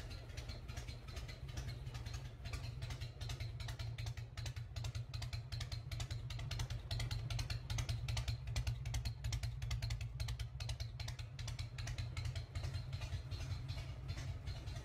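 Motorcycle engine idling: a steady low rumble with a fast, even ticking clatter over it.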